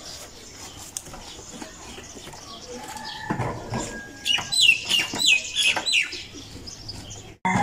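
A bird calling outdoors: a quick run of about five short, high chirps, each falling in pitch, starting about four seconds in.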